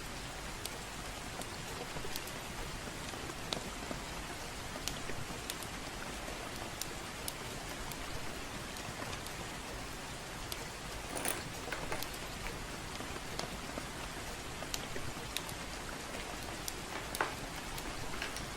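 Steady gentle rain, with sharp pops and crackles from a fireplace scattered through it, about one a second. A slightly bigger crackle comes around the middle and another near the end.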